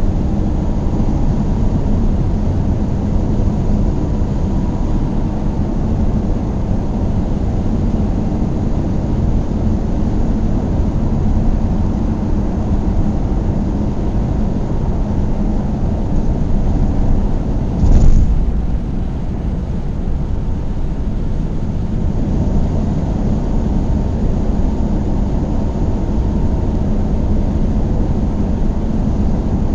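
Car driving at a steady pace: even engine and road noise, with a single thump about two-thirds of the way through, as from a bump in the road.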